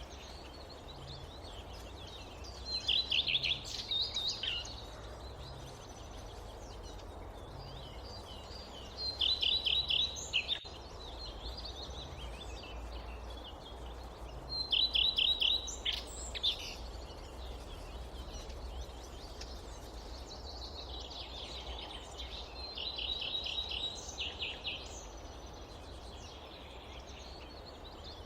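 A songbird singing a short, rapid trill of repeated high notes, four times, several seconds apart, with scattered softer chirps between. Underneath lies a steady, low background noise of the outdoors.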